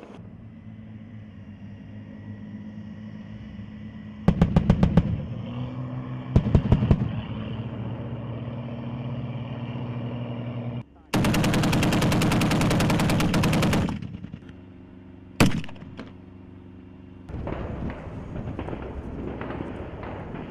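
Machine-gun fire in bursts: two short bursts, then a long burst of nearly three seconds, then a single shot, over a steady engine drone.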